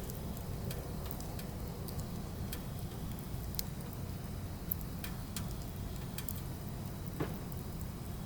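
Firewood burning: irregular sharp crackles and pops over a steady low rumble, with one stronger pop near the end.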